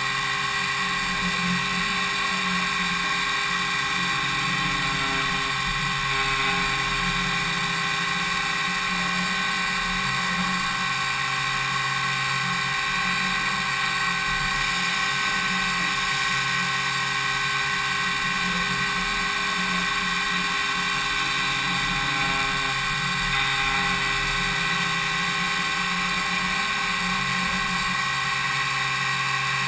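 Five-axis CNC milling machine (DMU 70V) machining an impeller blade: the high-speed spindle and cutter make a steady high-pitched whine of many held tones over a hiss.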